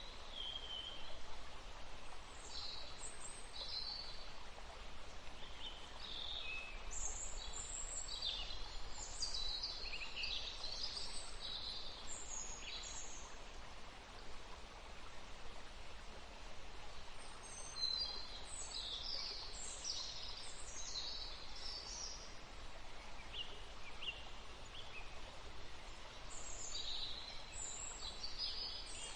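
Several small birds chirping and trilling in short, high-pitched phrases over a steady hiss of background noise, with a busy stretch around ten seconds in, another about eighteen seconds in, and more near the end.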